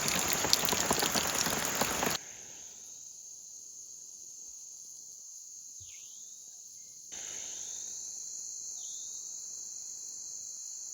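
Heavy rain falling steadily, with pattering drops, for about two seconds; then, after a cut, a steady high-pitched insect drone in the bush. The drone gets louder after another cut about seven seconds in.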